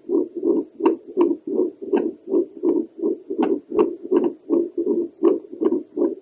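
Heartbeat picked up by a home doppler probe on the chest over the pulmonary valve: rhythmic whooshing pulses of blood flow, about three a second, some with sharp clicks of the valves.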